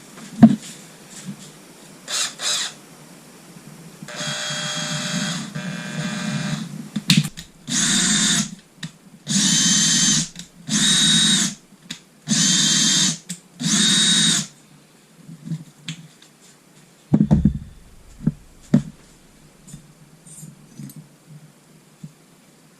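Electric drill spinning a Suzuki GN250 engine valve against its seat to grind it in, in start-stop bursts: two brief blips, a run of a few seconds, then five bursts of about a second each. A few sharp knocks follow.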